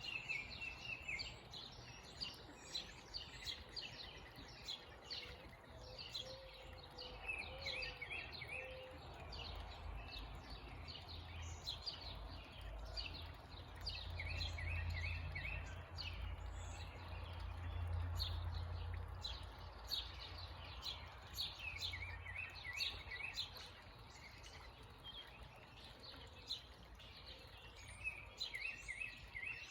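Several small songbirds chirping and calling: many short high chirps, with quick runs of repeated notes every several seconds, over a steady hiss. A low rumble swells up and fades through the middle.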